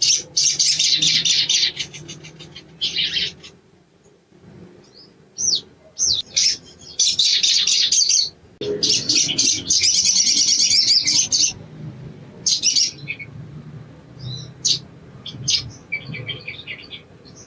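Spiderhunter calling: several bouts of rapid, high chattering trills, each a second or two long, with a few rising notes in between and sparser single sharp chips near the end.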